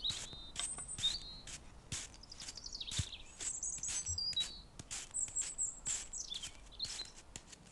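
Birdsong ambience: birds whistling and chirping, a run of short high notes and quick falling trills.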